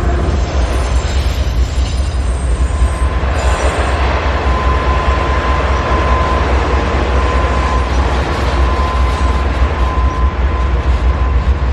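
CSX freight train cars rolling past with a steady heavy rumble and wheel noise. A thin, steady wheel squeal comes in about four seconds in and holds.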